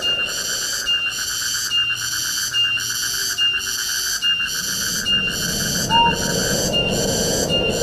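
Tropical forest ambience: a rhythmic insect chorus pulsing a little faster than once a second, over a steady buzz and a soft rush of wind. A short rising whistle comes about six seconds in.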